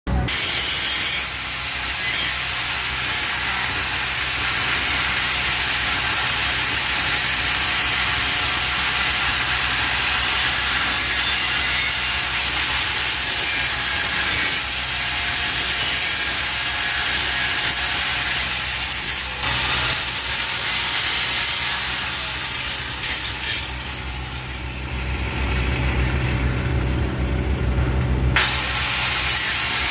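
TIG welding arc hissing steadily, over the low electrical hum of the welding machine.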